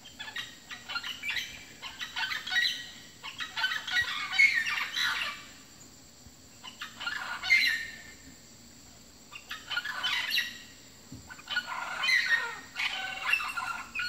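Birds calling in quick runs of chirps and short calls, coming in about four bursts with brief quieter gaps between them.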